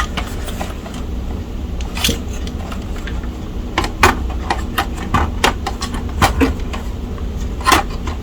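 Irregular clicks and knocks of a vintage laptop's plastic case and parts being handled and turned over during disassembly, over a steady low hum.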